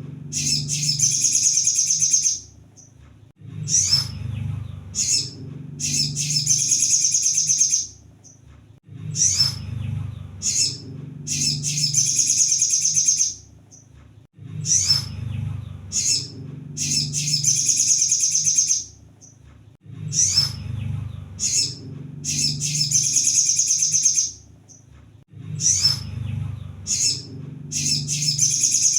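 Sunbird song repeating in a loop: a few sharp high chirps, then a fast, high trill lasting about two seconds, the phrase coming back about every five and a half seconds. A low hum runs under each phrase.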